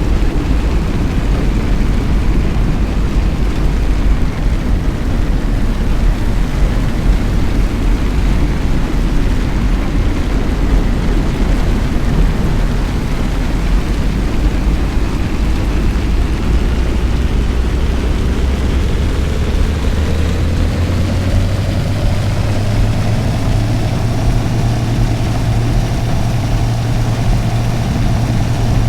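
Car engine and road noise while driving: a steady low rumble, with the engine's pitch slowly rising over the last ten seconds or so.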